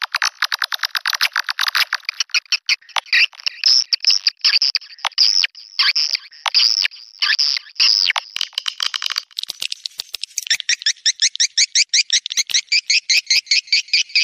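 Swiftlet mating calls: a rapid clicking chatter, then a run of sharp falling chirps, then from about ten seconds in a fast, even, high trill.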